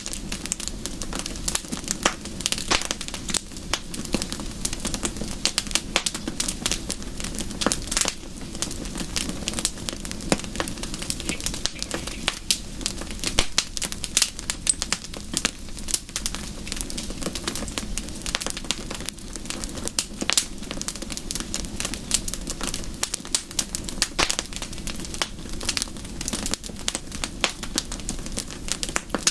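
Wood fire in a fireplace crackling, with dense, irregular pops and snaps over a steady low hiss.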